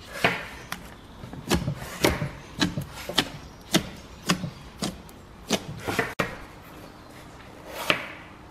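A knife chopping through slime-filled sponge and knocking on the board beneath, about a dozen chops at roughly two a second, with a pause before one last chop near the end.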